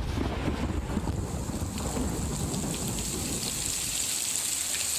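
Rain sound effect: a steady, dense hiss of heavy rain with a low rumble of thunder under it that drops away about four seconds in.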